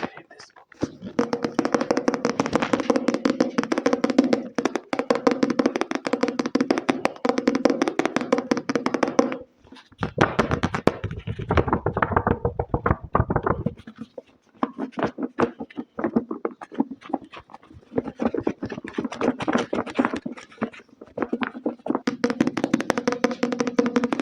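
Rapid ASMR tapping on a hard object, a dense run of quick taps in long bursts with short breaks about ten and fourteen seconds in, the stretch between them lower in pitch.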